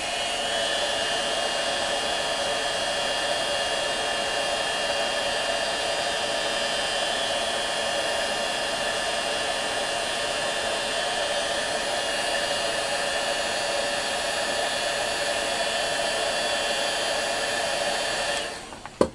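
Heat gun blowing steadily with a faint fan whine, heating a small brass shell so it expands for a shrink fit onto a motor shaft. It switches off near the end.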